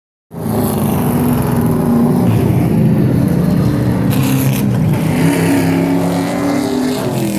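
Race truck engines running at speed on a short oval, a steady loud engine drone with small shifts in pitch.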